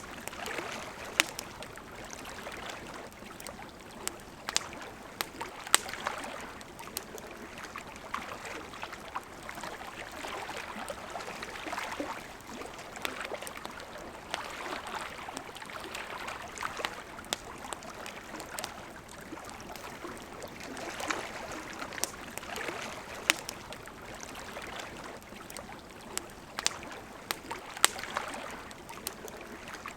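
Wood campfire crackling, with scattered sharp pops, over the steady rush of a flowing river that swells and eases.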